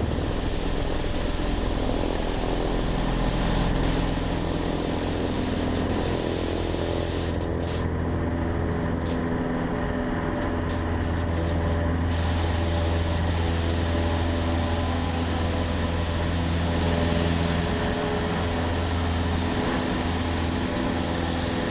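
Cessna 150's four-cylinder Continental O-200 engine and propeller running at full power through the take-off roll and climb-out, a steady drone heard inside the cockpit.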